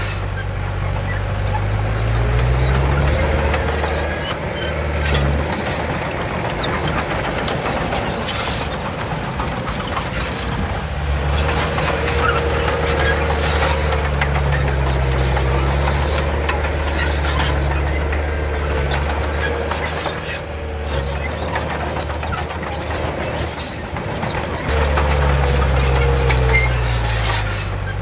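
Komatsu D31 bulldozer's diesel engine working under load, its note dropping and rising again several times as it pushes, with a thin squeal that comes and goes.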